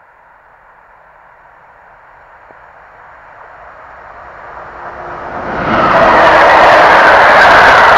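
PKP Intercity passenger train approaching and passing close by on the track: the sound of wheels on rails grows steadily louder for about six seconds, then holds as a loud, steady rush while the coaches go past.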